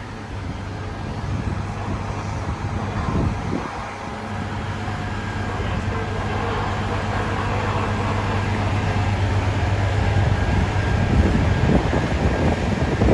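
City street traffic with a large engine's steady low hum that builds over several seconds and then eases off near the end.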